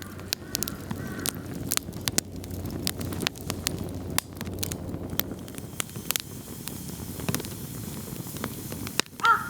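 Firewood burning in a fire pit, crackling with irregular sharp pops over a low hiss. A crow starts cawing right at the end.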